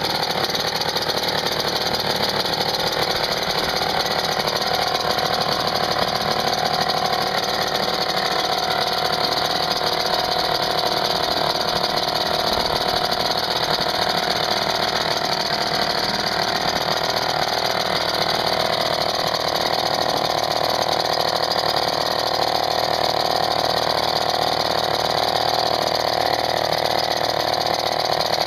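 Old British Seagull 102 two-stroke outboard motor running steadily.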